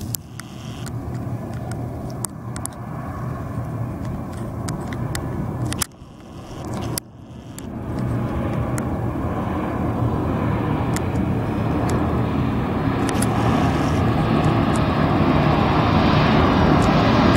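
Arriving airliner's engines, a steady rumble growing louder as it approaches, with two short, sudden drop-outs about six and seven seconds in.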